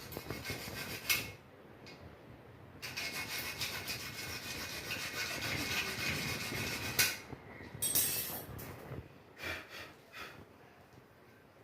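Rough scraping and rubbing, a hard tool or surface dragged over a gritty one: a steady stretch of scraping through the middle, with a few sharper scrapes before and after.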